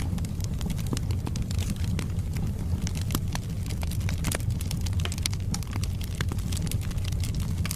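Wood fire burning in a fireplace: a steady low rumble of flame with frequent sharp crackles and pops from the burning logs, irregular and spread throughout.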